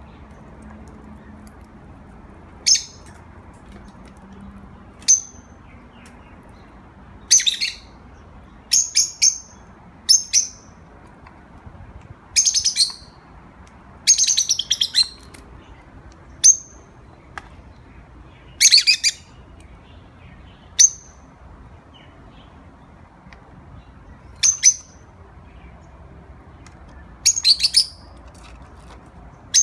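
Pet birds chirping: short, high calls every second or two, some single chirps and some longer warbling runs of about a second.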